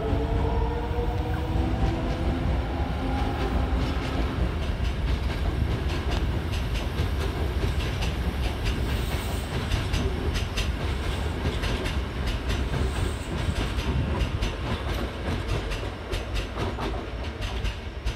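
Toei 5300-series electric commuter train running through: its motor whine falls in pitch over the first few seconds over a steady low rumble, then wheels clickety-clack over the rail joints, the clicks clearer near the end.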